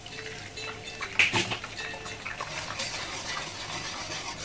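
Egg frying in hot oil and garlic in a wok, a steady sizzle, with a sharp knock about a second in and the clink and scrape of a ladle as the egg is stirred near the end.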